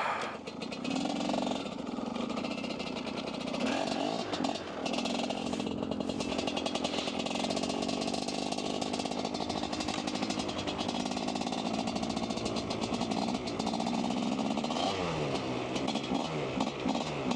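Dirt bike engine running under throttle while riding. Its revs rise and fall around four seconds in and again about fifteen seconds in.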